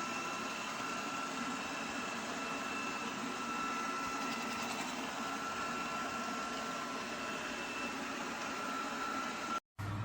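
Lubluelu L20 robot vacuum running, a steady motor whine held at one pitch over a low hum. It cuts off suddenly near the end.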